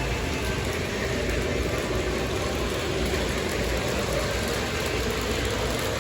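O gauge model trains running on the layout's track: a steady rumble and whir of wheels and motors.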